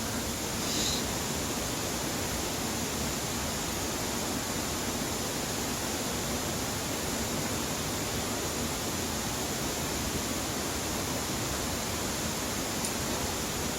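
Steady rushing of a mountain valley stream, even and unbroken, with a faint brief high chirp about a second in.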